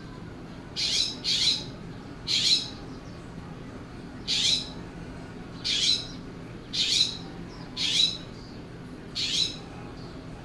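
California scrub jay giving a series of eight short, harsh squawks, about one a second.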